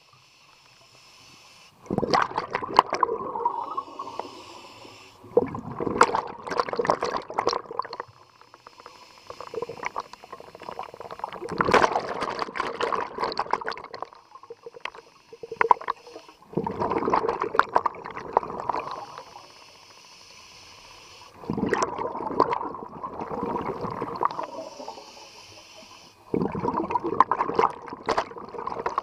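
Scuba diver breathing through a regulator underwater: a burst of exhaled bubbles about every five seconds, six in all, with a fainter hiss between them.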